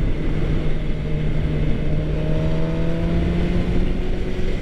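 Engine of a 2013 Suzuki GSX-R600 sport bike running at a steady pitch while riding, with a fainter tone that rises slightly from about two seconds in.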